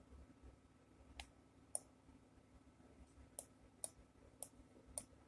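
Faint computer mouse clicks, six in all, the later ones coming about every half second, over a low steady hum.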